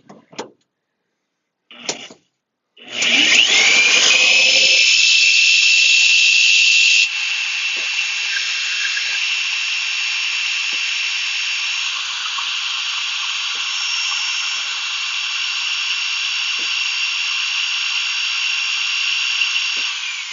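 Electric drill spinning a propeller. It spins up with a rising whine about three seconds in, then runs steadily with a high whine until it winds down near the end.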